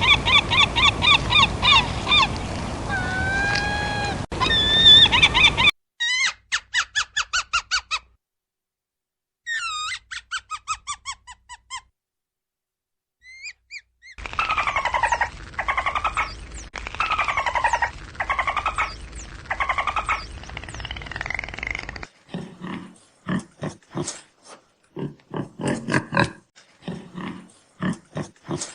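A run of separate animal-call recordings, one after another with silent gaps. First rapid high chirping and trilling, then two short trills, then drawn-out squealing calls that fall in pitch, and near the end a series of short, lower honking calls.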